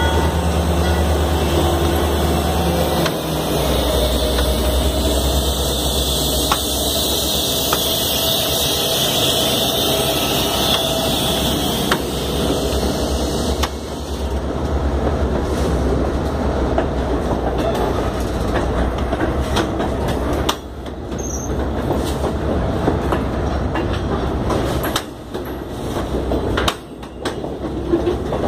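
Freight train moving on the track: a steady low drone under the continuous rumble and rattle of wheels and cars on the rails.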